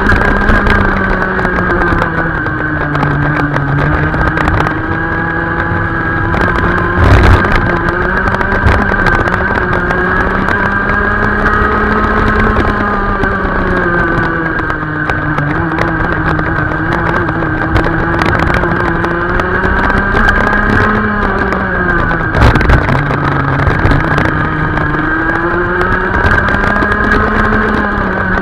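Racing kart engine running hard on a circuit, its revs climbing, holding and dropping again every few seconds as the kart accelerates and brakes for corners, with a couple of brief knocks.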